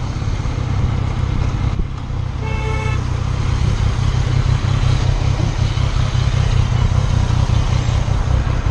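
Steady low rumble of a car on the road, with one short horn honk about two and a half seconds in.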